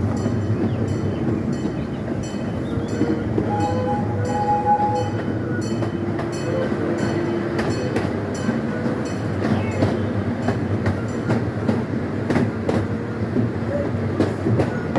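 Scenic railway train rolling along the track, heard from aboard: a steady rumble with wheels clicking regularly over the rail joints.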